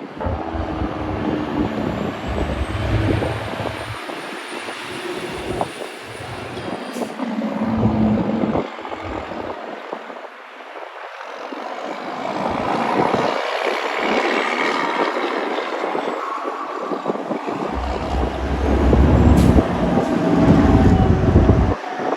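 Semi trucks passing one after another, with engine rumble and tyre noise swelling and fading several times; the loudest pass comes near the end.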